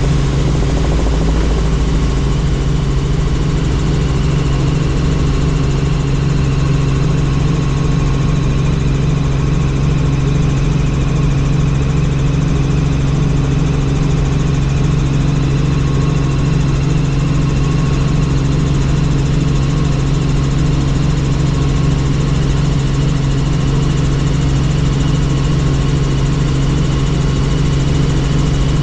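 Helicopter in flight: a steady, loud drone of engine and rotor, with a low hum and a faint high whine above it.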